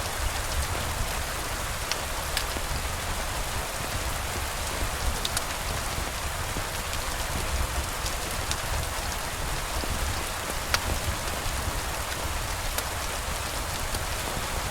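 Steady rain, with scattered sharp clicks and a low rumble underneath.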